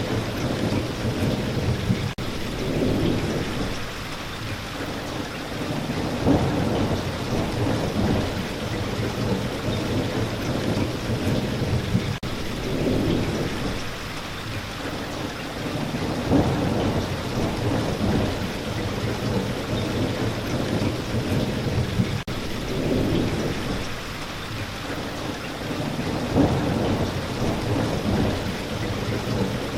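Steady spring rain falling, with low rolling thunder that swells and fades every few seconds.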